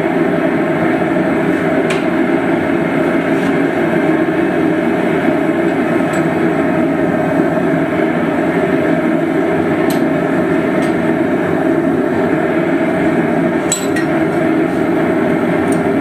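Steady roar of a running forge, with a few light metal clinks.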